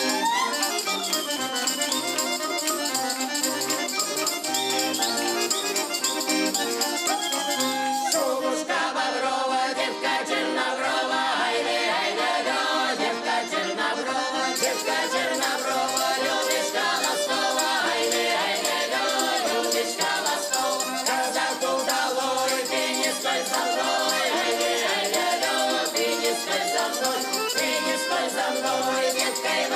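Russian folk ensemble music playing steadily, with no words sung.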